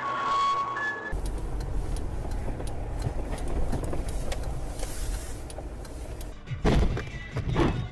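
Car on the move heard from inside the cabin: steady low road and engine rumble. In the first second an emergency siren sounds in two alternating tones; near the end come two loud, sudden knocking bursts.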